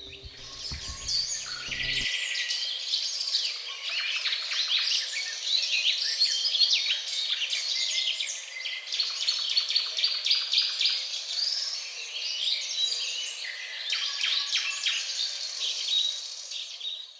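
A chorus of many small birds chirping and singing at once, with dense overlapping short chirps, trills and whistles.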